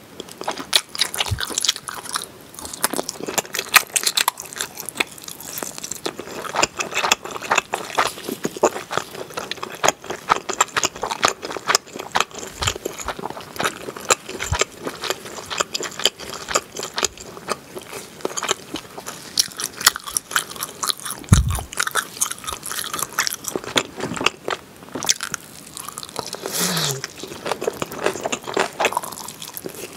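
Close-miked chewing of grilled pork back ribs with melted cheese: dense, irregular wet mouth clicks and smacks throughout.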